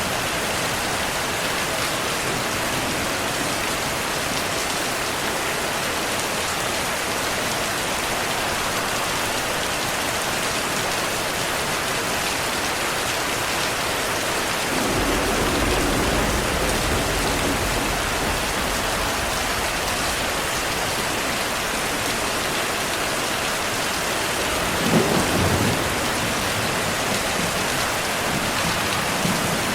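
Heavy rain falling steadily, with rolls of thunder: a low rumble about halfway through lasting a few seconds, and a sharper crack of thunder near the end.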